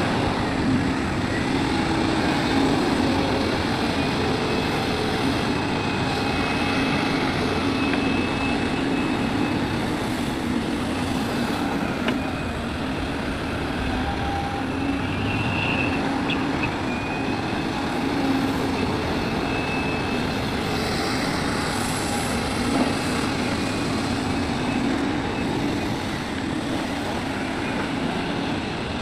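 Large hydraulic excavator's diesel engine running steadily as it works, with a faint high whine coming and going now and then.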